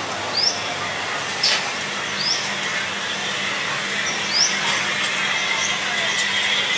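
Small birds giving short, high, rising chirps, about five spaced irregularly, over a steady background hum.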